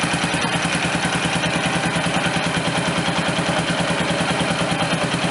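Honda FTR223's single-cylinder engine idling steadily through an aftermarket Supertrapp exhaust, with an even, rapid exhaust pulse.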